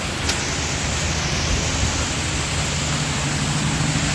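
Steady hiss of heavy pouring rain, with a steady low engine hum underneath that grows stronger near the end.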